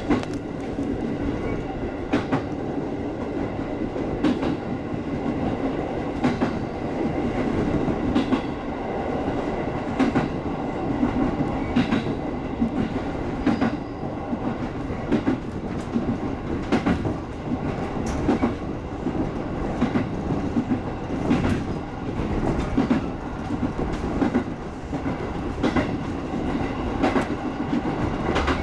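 JR 205 series electric train running along the track, heard from inside the driver's cab. A steady running rumble is broken by sharp clicks about every two seconds as the wheels cross the rail joints.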